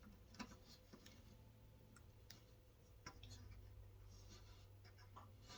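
Near silence with a few faint clicks and light scrapes from a PC case's side panel and thumb screws being handled.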